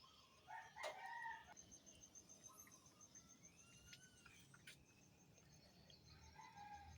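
Faint crowing and calls of fowl, heard from a distance, with a faint fast-pulsing high chirp behind them.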